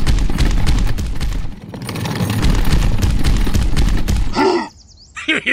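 Fast, rattling knock of a small single-cylinder diesel-type engine running, with heavy low thudding. It stops about four and a half seconds in, and a couple of short wavering pitched calls follow.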